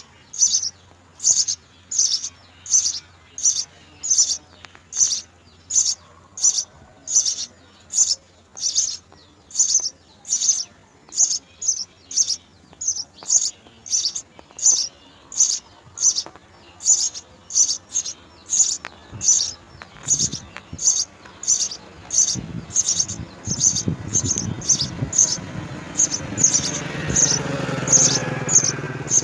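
House sparrow chirping over and over in an even rhythm of short, high cheeps, about three every two seconds. Past the middle, a low rumble rises beneath the chirps and grows until near the end.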